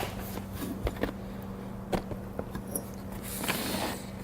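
A small steel pin clicking and tapping against the metal of an outboard's propeller and shaft as it is tried in holes it does not fit, with a brief scrape about three and a half seconds in. A steady low hum runs underneath.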